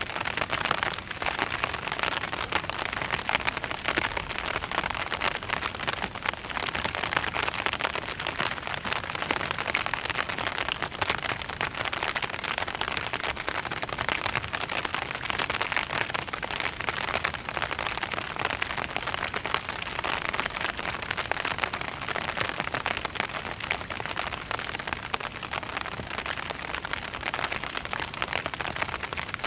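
Steady rain falling on an umbrella, heard from underneath it: a dense, even hiss made of countless small drop ticks, with no thunder.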